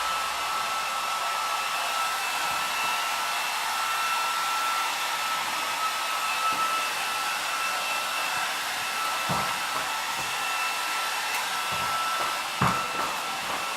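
Electric hair dryer blowing steadily, a rushing air noise with a high whine, used to desensitize a young horse. A few knocks sound near the end.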